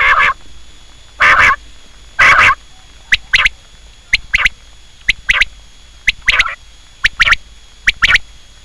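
Quail calling over and over, about once a second: three longer harsh calls, then a run of quick paired notes.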